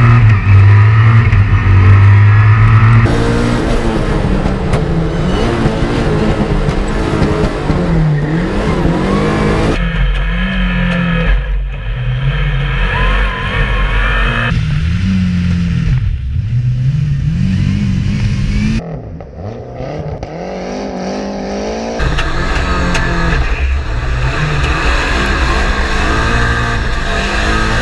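Lancia Delta Integrale Evo rally car's turbocharged four-cylinder engine revving hard, pitch rising and falling with gear changes as it is driven on a rally stage. The sound jumps abruptly several times, with a quieter, duller stretch about two-thirds of the way through.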